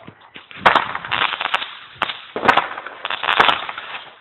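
A multi-shot consumer firework going off: a string of sharp pops and cracks at irregular intervals, with a crackling hiss between them.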